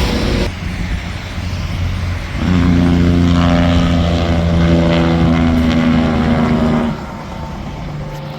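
Semi-truck air horn blown in one long steady blast of about four and a half seconds, starting and stopping abruptly, over the rumble of passing highway traffic.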